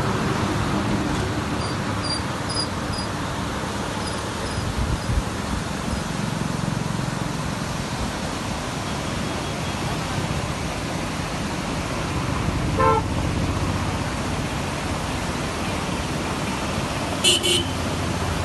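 Steady rushing noise with two short vehicle horn toots, one about two-thirds of the way in and one near the end.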